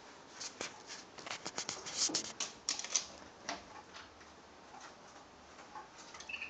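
Rapid, irregular clicking and tapping on a hard surface, thinning out after about three and a half seconds, with a brief high-pitched note near the end.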